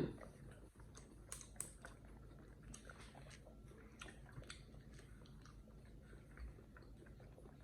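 Faint chewing and eating sounds: scattered small clicks and ticks of mouths working on food at a dinner table, over a low room hum.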